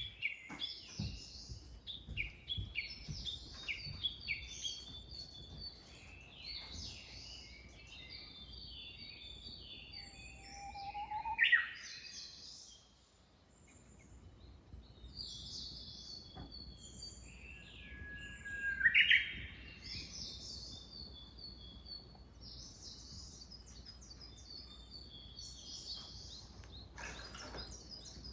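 Several small wild birds chirping and singing together, a busy chorus of high trills and chirps. Two louder, sweeping calls stand out, about 11 and 19 seconds in.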